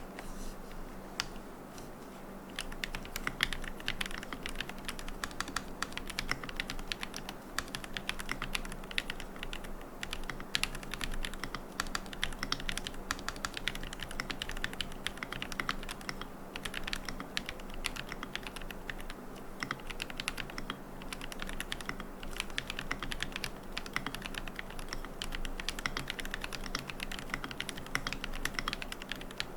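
Fast, continuous typing on a QK75N mechanical keyboard with Gateron Moon Landing switches, a carbon plate, no foam and MilkyWay Poker keycaps. The key clicks come rapidly, several per second.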